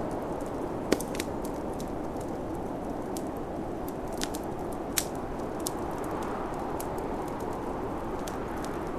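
Wood fire crackling with scattered sharp pops, the loudest about a second in and about five seconds in, over a steady rushing snowstorm wind.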